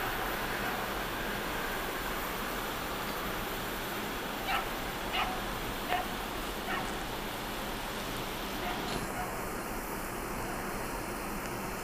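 Passenger train coaches rolling away on the rails, their noise fading within the first couple of seconds into a steady hiss. Around the middle a dog barks four times about a second apart, then once more, fainter.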